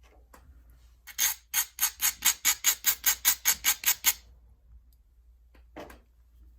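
About a dozen quick, even scraping strokes, about four a second, of stone rubbed on a stone point's edge, as in abrading the edge while flintknapping. A single fainter scrape follows near the end.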